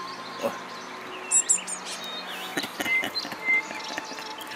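Blue tits chirping in short high calls, with a quick run of very high notes about a second in. A few sharp clicks come near the middle.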